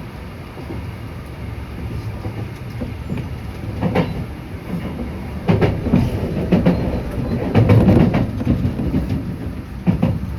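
Enshu Railway electric train running, heard from inside the passenger car: a low rumble with irregular clacks and knocks from the wheels on the rails, growing louder about halfway through.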